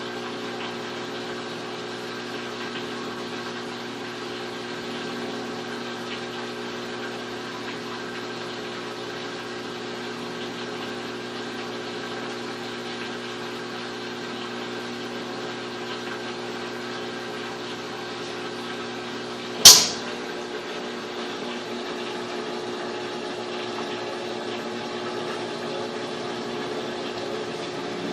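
Electrolux LTE12 top-load washing machine running with a steady, even motor hum after its tub seal and mechanism and motor bearings have been replaced. A single sharp click comes about twenty seconds in.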